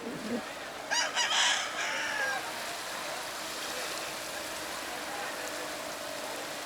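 A rooster crowing once, about a second in, a loud call of about a second and a half that drops away at the end, over a steady background hiss.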